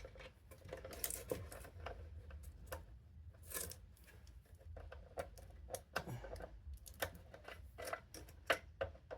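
Irregular small clicks and taps of hands handling a horn switch and its wire connectors while setting up a continuity test with a multimeter.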